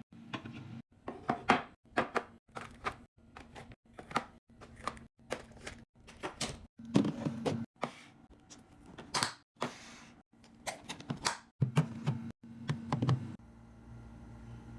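Restocking handling sounds: a quick series of knocks and thunks of items and containers being set down, with short bursts of crinkly packaging rustle, cut off abruptly every second or so. A low steady hum takes over in the last second or so.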